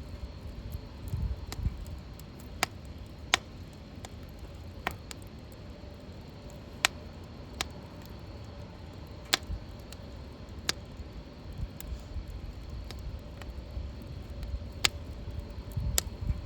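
Wood fire crackling in a fire pit: sharp pops at irregular intervals, about a dozen, over a low steady rumble.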